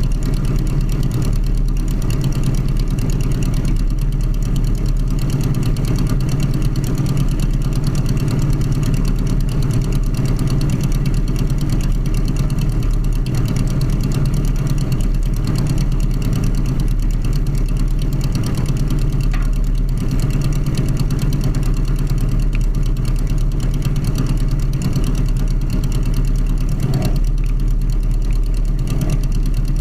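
Air-cooled Volkswagen flat-four conversion engine of a Sonerai light aircraft running at steady power with its propeller: a constant drone that holds one pitch, during the engine's break-in.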